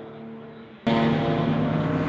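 Historic GT race car engines on track: one engine fades away after passing, then an abrupt jump about a second in to another car's engine running much louder.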